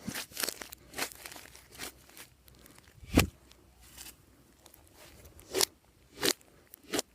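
Hands working glossy slime: a series of separate crackling, popping squishes, with the loudest, deeper one about three seconds in and three more sharp ones near the end.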